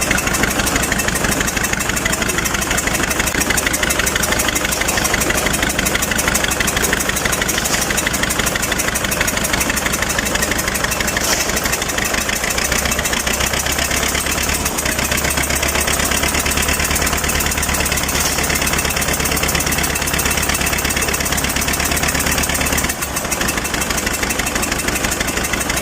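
A loader's diesel engine running steadily with a fast, even firing beat; its note deepens and strengthens for a stretch about halfway through, then dips briefly near the end. The engine is freshly overhauled but is said to lack pulling power.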